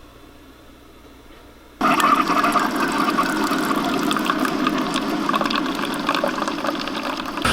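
Rushing, splashing water with many small crackles. It starts suddenly about two seconds in and runs steadily.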